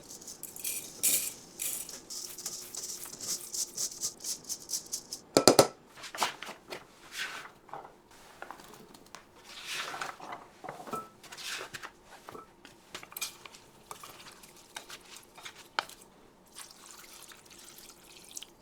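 Food preparation with kitchen utensils and dishes: a quick run of light clicks and taps, then one loud knock about five and a half seconds in, followed by scattered clinks and scrapes.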